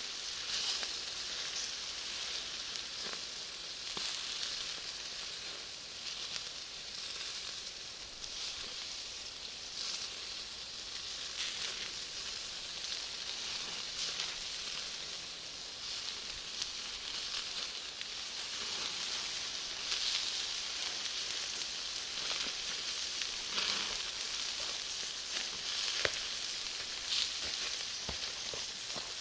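Bonfire of Iwate cut charcoal and cherry wood with sausages grilling over it: a steady hiss and sizzle with scattered sharp crackles and pops from the burning charcoal.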